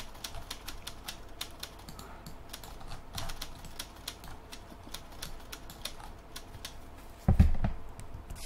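Irregular clicking and tapping from a computer keyboard and mouse, many quick clicks one after another. A single duller thump about seven seconds in.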